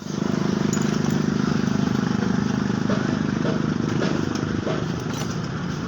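Honda CD 70 motorcycle's single-cylinder four-stroke engine running steadily with an even, rapid pulse.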